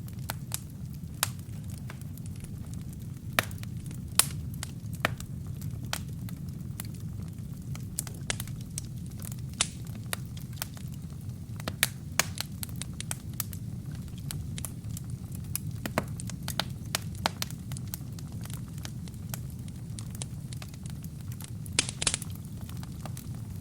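Burning wood in a fireplace crackling, with irregular sharp pops and snaps over a steady low rumble of flame.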